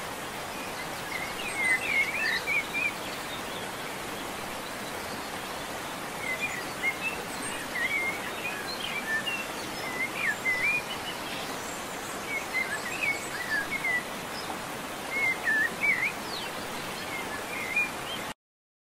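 Birds chirping in clusters of quick, twisting twitters over a steady background hiss; the sound cuts off suddenly near the end.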